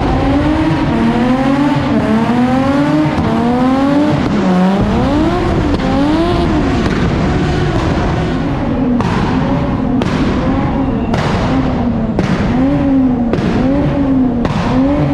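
Car engine revved hard, its pitch swinging up and down about once a second as if held near the limiter, with tires squealing. From about nine seconds in, sharp cracks come about once a second over the engine.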